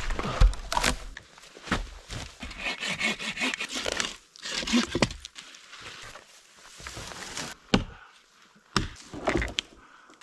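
Wooden sticks and poles knocking and scraping as they are cut and handled, with several sharp knocks and a rasping stretch about three seconds in.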